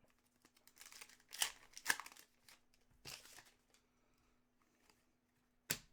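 Trading card pack wrapper being torn open and crinkled: a series of short rustling bursts, then a sharp tap near the end.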